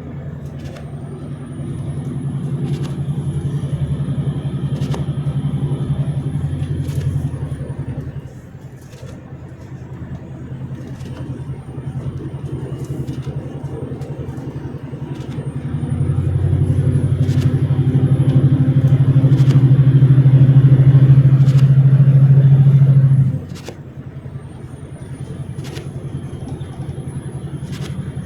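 A vehicle's engine running steadily under load. It builds louder over the last third, then drops off suddenly near the end as the load comes off.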